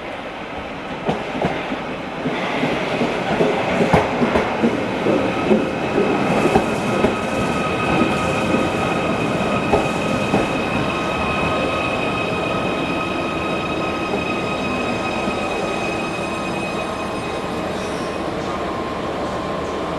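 Train running past on the rails, growing louder about two seconds in, with the wheels clicking over rail joints through the first half. A steady high-pitched tone is held through the middle and later part.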